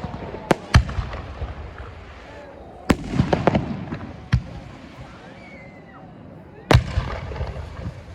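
Small aerial firework shells bursting at close range: sharp bangs at irregular intervals, two about half a second in, a cluster around three seconds in, and a loud pair near the end.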